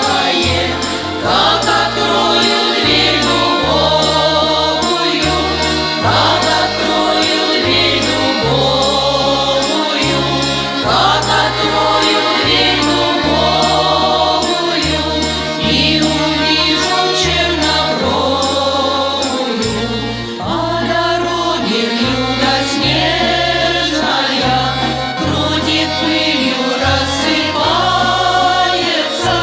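A song: voices singing a slow melody with vibrato over instrumental accompaniment, the bass holding each note for about a second before moving on.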